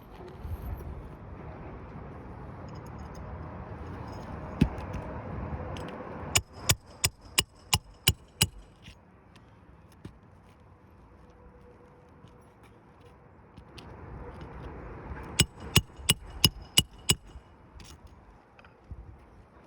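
Hand hammer nailing down an asphalt roof shingle: two quick runs of about seven sharp, ringing blows each, roughly three or four a second. Before each run comes a rough scraping of the shingle being worked into place.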